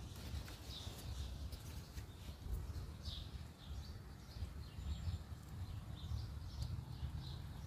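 Small birds chirping: short, high calls repeated irregularly, over a steady low rumble.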